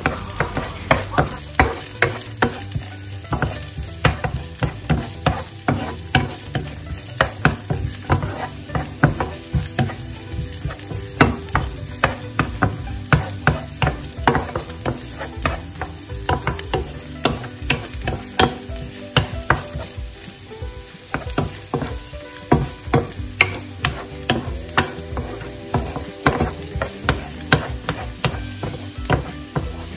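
Wooden spoon stirring sliced onion and garlic in a nonstick frying pan, scraping and knocking against the pan about two to three times a second, over a steady sizzle of the onions frying in oil.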